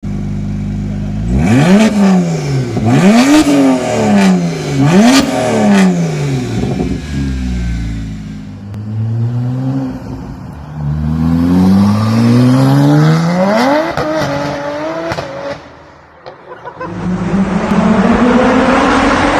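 2012 BMW 1M's twin-turbo inline-six exhaust on a catless, straight-through Akrapovic titanium system. It idles, then is blipped three times in quick succession, revs up once more, and then pulls hard with the pitch climbing through two more runs.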